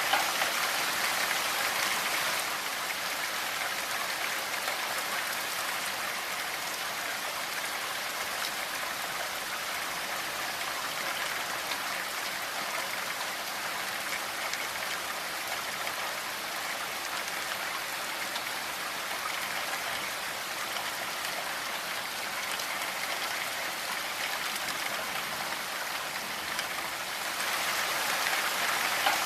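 Steady rainfall, an even hiss of countless drops, a little louder for the first couple of seconds and again near the end.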